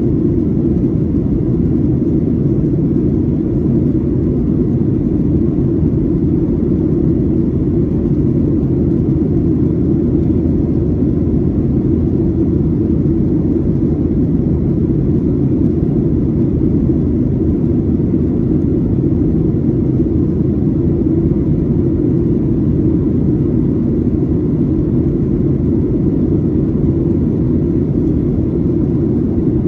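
Steady cabin drone inside a Boeing 737-800 in flight: a constant low rumble of its CFM56-7B turbofan engines and the airflow past the fuselage.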